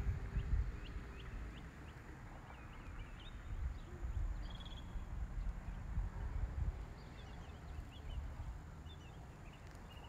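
Birds chirping in short, scattered calls over a low, uneven outdoor rumble.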